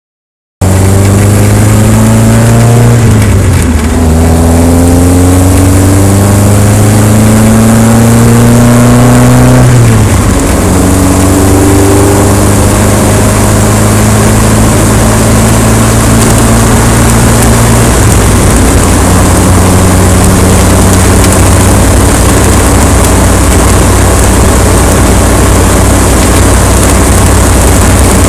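A vehicle engine speeds up through several gear changes: the pitch climbs, drops, and climbs again three or so times in the first ten seconds, then holds a steady cruise. A loud, steady rush of wind noise runs under it.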